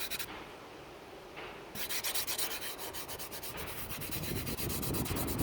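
Pastel stick scratching quickly back and forth on paper as colour is hatched in. The rapid strokes pause briefly, then start up again about two seconds in and carry on.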